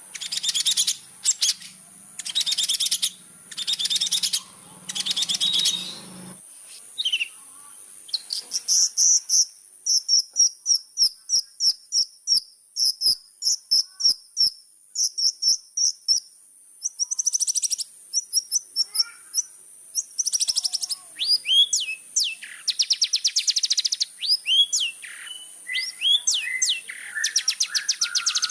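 Long-tailed shrike (cendet) singing a varied chattering song: several harsh rasping bursts, then a fast run of sharp chips, then a string of sweeping whistled notes. A steady high, thin insect-like tone runs underneath.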